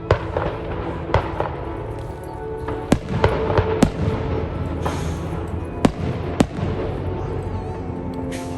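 Fireworks going off in irregular sharp bangs, about eight, with several close together midway, over music playing.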